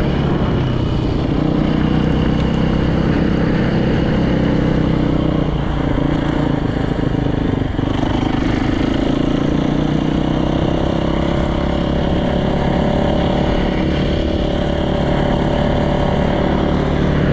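Freshly rebuilt Yamaha YZ450 single-cylinder four-stroke dirt-bike engine running with a steady note and only slight changes in pitch.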